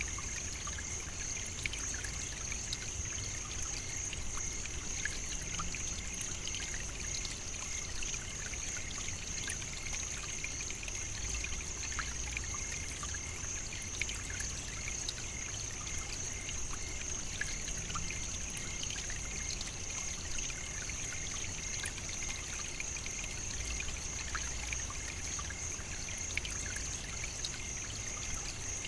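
African savannah nature ambience: a steady high-pitched whirring hum with a fainter pulsing note below it, over a continuous low rumble and scattered faint ticks.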